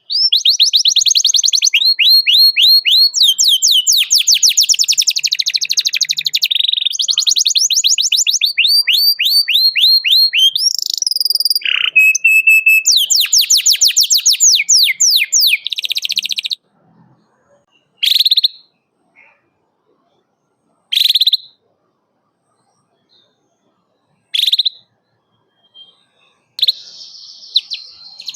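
Domestic canary singing a long, fast trilling song of rapid repeated down-slurred notes, switching from one trill to the next. After about 16 seconds the song stops, leaving single short chirps every few seconds and a little soft chatter near the end.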